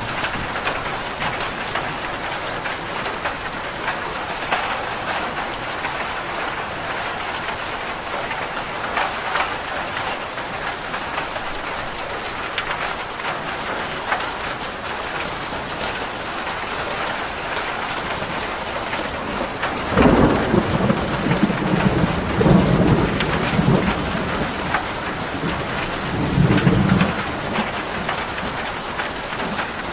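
Rain falling steadily on a roof. About two-thirds of the way in, thunder rumbles for several seconds, swelling two or three times before fading back under the rain.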